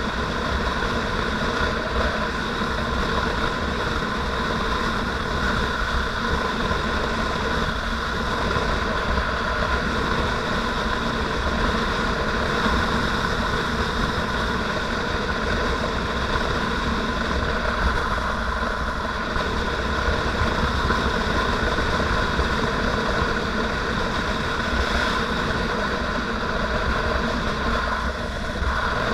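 Motorcycle engine running at a steady pace while riding, a constant even drone.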